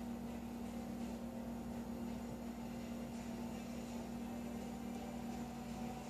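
A steady hum with a faint hiss underneath, unchanging throughout.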